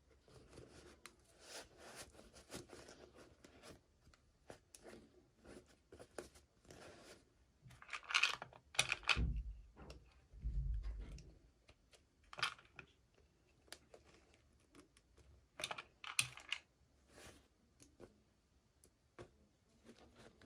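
Hands opening and handling toy packaging: scattered small clicks and taps with rustling and tearing, louder bursts of rustling about eight, twelve and sixteen seconds in, and a few dull thumps near the middle.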